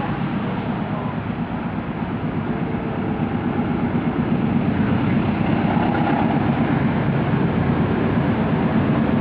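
Kertajaya passenger train running, a steady rumble that grows louder over the second half.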